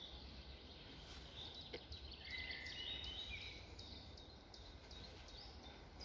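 Faint woodland birdsong: a few short whistled phrases between about one and a half and three and a half seconds in, over a low steady rumble.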